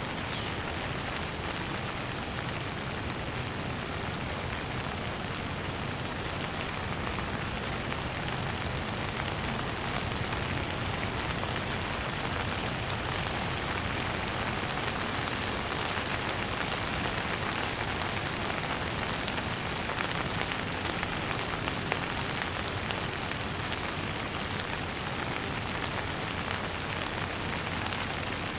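Steady light rain: an even hiss of many drops, with a few sharper ticks of single drops.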